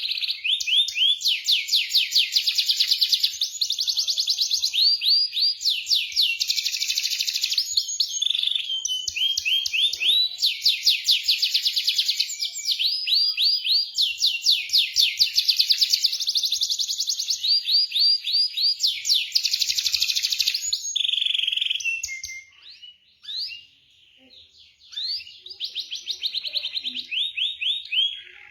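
Domestic canary singing long phrases of fast rolling trills, one run of rapid notes after another, with a short break near the end before it starts again.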